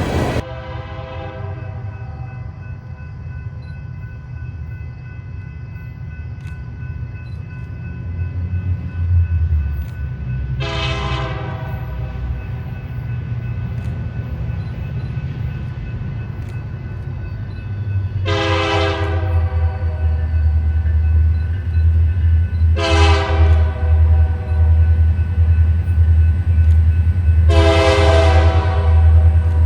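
Diesel freight locomotive approaching with its engines rumbling, growing louder, while its multi-chime air horn sounds a series of long blasts. One blast cuts off just after the start, and four more come in the second half.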